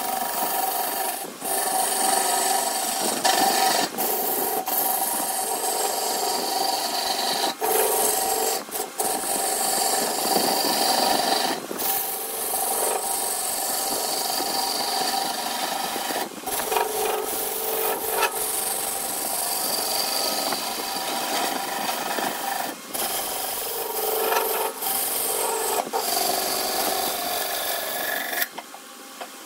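Wood lathe spinning a redwood blank while a tool is held against the turning wood, giving a steady scraping hiss over the hum of the lathe. The tool comes off the wood briefly every few seconds.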